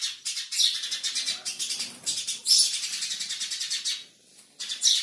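Small birds fighting, giving rapid, high-pitched chirps in quick bursts of about a second each, with a short pause about four seconds in.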